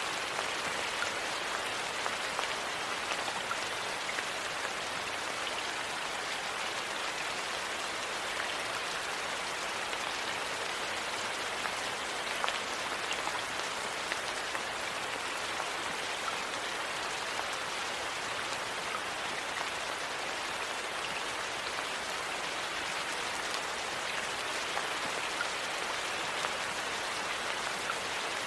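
Steady rain: an even hiss with scattered small ticks.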